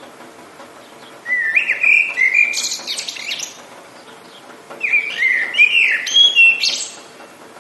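A songbird singing two phrases of quick, sliding whistled notes, the first about a second in and the second near five seconds, over a steady hiss of rain.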